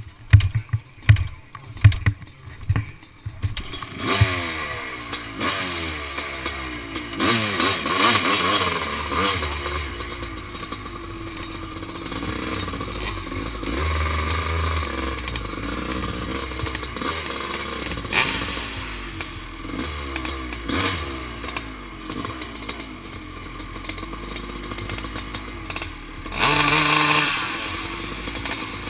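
Kawasaki KX500 two-stroke single-cylinder engine being push-started: a string of sharp pops in the first few seconds, then it catches about four seconds in and runs, revved up and down in blips, with a strong rev near the end.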